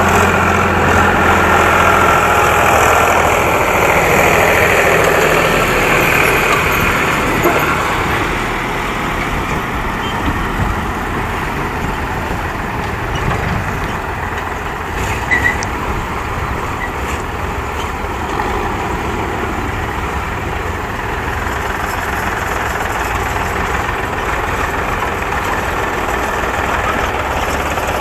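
Heavy diesel engine running steadily, louder for the first several seconds and then settling a little lower.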